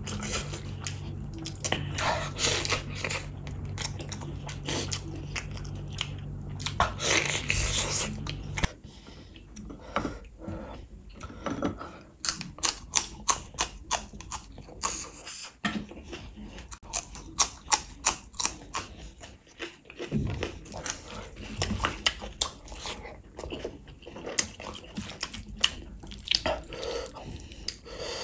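Eating sounds: chewing and smacking on rice and beef in chilli gravy, with many short sharp mouth clicks. A low steady hum runs underneath and stops suddenly about a third of the way in.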